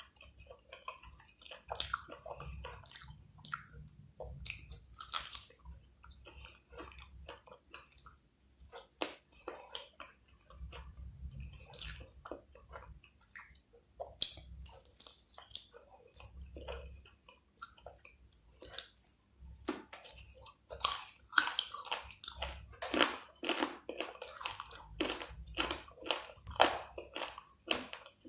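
Close-miked chewing and wet mouth sounds of a person eating, with many short clicks and smacks. The chewing gets faster and louder in the last third.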